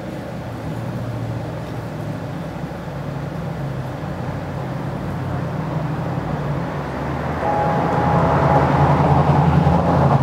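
Vehicle engine running on the street, steady at first and growing louder in the second half as it draws close.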